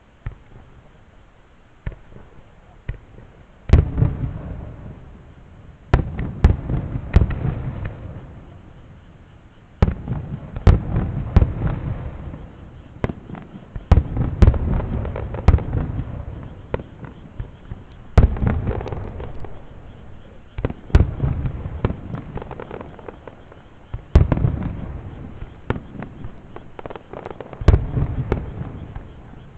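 Aerial fireworks bursting in a barrage: loud sharp bangs every two to four seconds, each followed by a spray of crackling snaps and a fading rumble.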